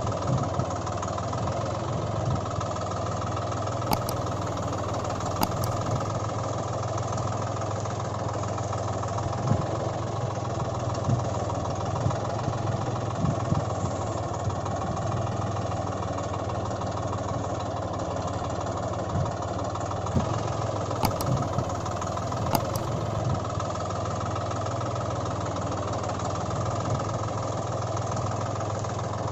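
Engine idling steadily, a looped recording that repeats about every 17 seconds.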